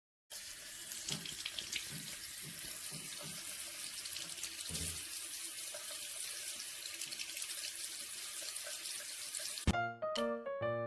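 Steady rush of running water, cutting off abruptly near the end as a keyboard tune begins.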